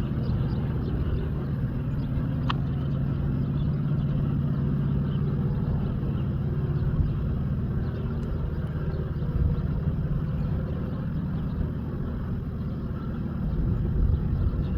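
Diesel freight locomotives running, a steady low rumble with a constant hum.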